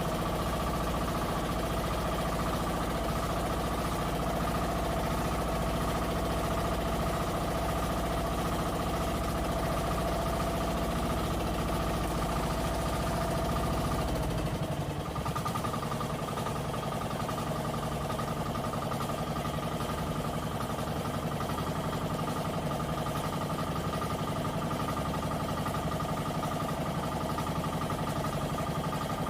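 Twin engines of a fishing bangka running steadily under way. About halfway through, the deep low drone drops out and the engine note changes, then runs steady again.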